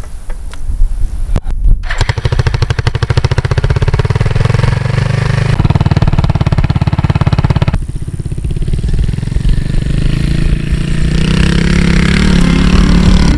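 Suzuki TU 250 Volty's single-cylinder four-stroke engine running under way with a rapid, even firing beat. The engine note drops about eight seconds in, as at a gear change, then climbs steadily in pitch as the bike accelerates.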